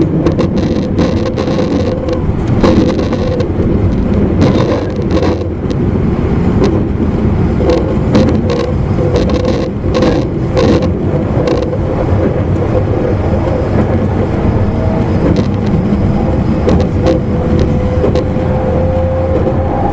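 Running noise inside an E259 series motor car (MoHa E259) at speed: steady rumble of the traction motors and wheels on the rails with a steady tone, broken by many irregular clicks and knocks from the track, clustered most thickly in the middle.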